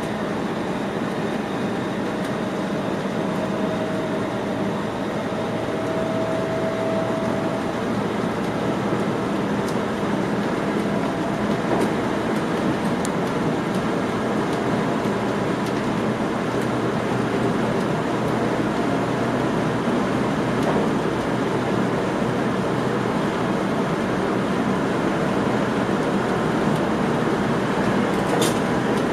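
Steady running noise inside a train's driver's cab as it travels along the line: the rumble of wheels on rails, growing slightly louder, with a few sharp clicks near the end.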